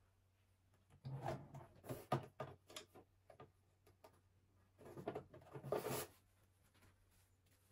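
Household handling sounds: two bursts of quick clicks, knocks and rustling, the first about a second in and the second about five seconds in.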